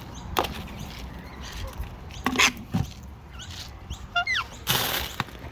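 Birds at a feeding spot: a few sharp knocks scattered through, a short rising call a little after four seconds in, then a brief harsh burst of sound near the end.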